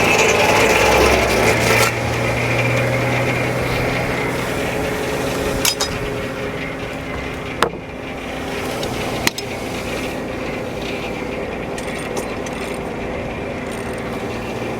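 Frick No. 1 sawmill's circular saw running in a log, over the steady drone of the engine that drives it. The cut is loudest for the first two seconds, then the mill runs on a little quieter, with three sharp knocks in the middle.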